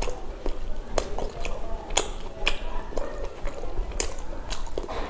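Close-miked chewing of pav bhaji, soft bread rolls and mashed vegetable curry, with wet mouth smacks and clicks at irregular intervals.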